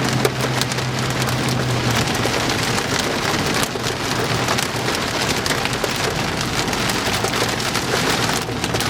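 Heavy rain pelting the outside of a vehicle in a thunderstorm, a dense steady hiss full of small drop strikes, with a low steady hum that fades about two seconds in.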